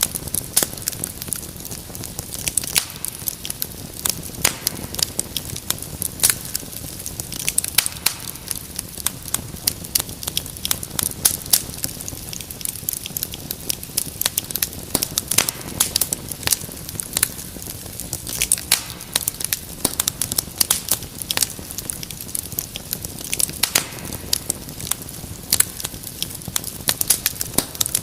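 Wood fire crackling in a fireplace: dense, irregular sharp pops and snaps over a steady low rumble of burning.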